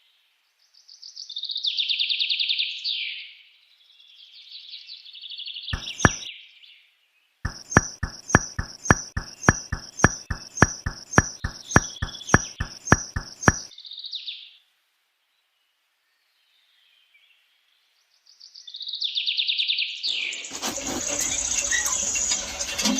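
Birds chirping in short high trills, broken by a run of about sixteen evenly spaced sharp clicks, roughly three a second, through the middle. A louder, dense noisy sound sets in near the end.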